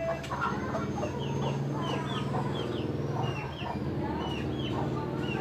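Several birds calling at once: low, clucking fowl-like calls under a run of short, quick high chirps, about two or three a second.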